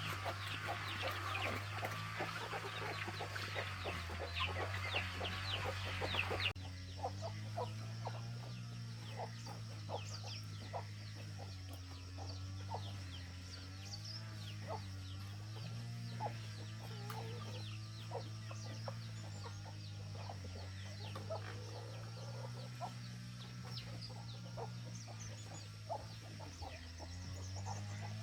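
Chickens clucking and calling over a low steady hum. About six and a half seconds in the sound changes abruptly, from dense high chirping to sparser calls.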